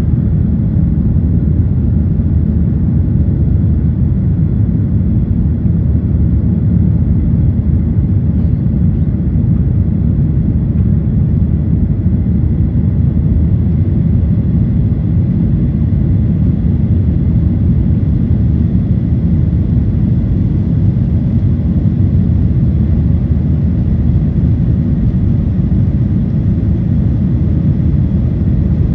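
Steady, loud rumble of a Boeing 737-800's CFM56 jet engines and airflow heard inside the passenger cabin, with faint steady whines above the rumble.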